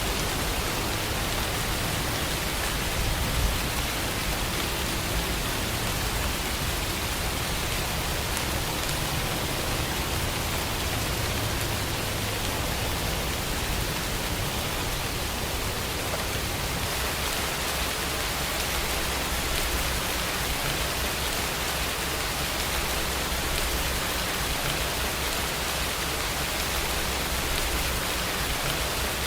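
Steady rain, an even hiss of falling drops with a low rumble underneath.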